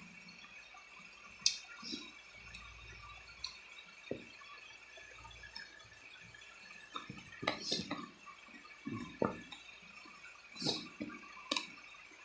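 Close-up eating sounds of chicken feet being chewed: scattered wet smacks and mouth clicks, coming more often in the second half.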